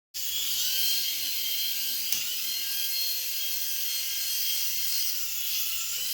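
Toy helicopter's small electric motor and rotor whirring steadily with a high-pitched whine, with a small click about two seconds in.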